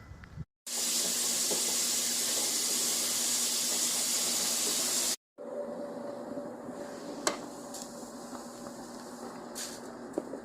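A loud, steady hiss, like running water or steam, lasting about four seconds. Then a sudden cut to a quieter hiss with a few sharp clicks.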